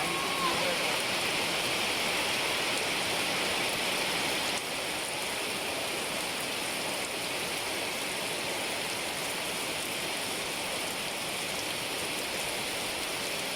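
Steady rain falling, a continuous even hiss of water that steps down slightly about four and a half seconds in.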